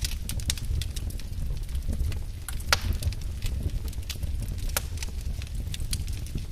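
Wood fire burning in a fireplace: a steady low rumble of flames with irregular crackles and pops, one louder pop a little under three seconds in.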